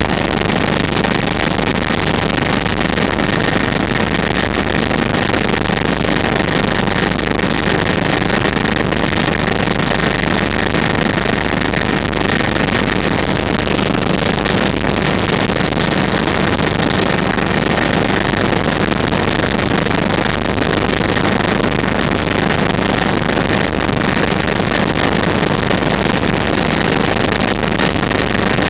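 Steady, loud engine drone with a constant high whine running through it, unchanging throughout.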